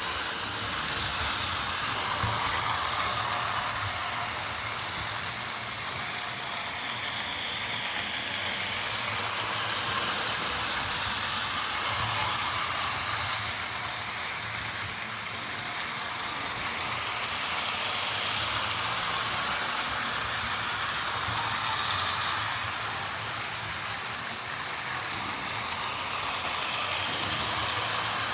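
Vintage Lionel toy electric locomotive running on its track: a steady motor whir and wheel-on-rail clatter over a low hum, swelling and fading every ten seconds or so.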